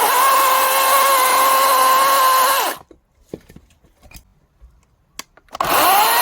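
Cordless battery chainsaw running with a steady high whine, cutting mandarin orange wood into firewood rounds. The whine winds down and stops about two and a half seconds in. A few light knocks follow, then the saw starts again near the end, pitch rising.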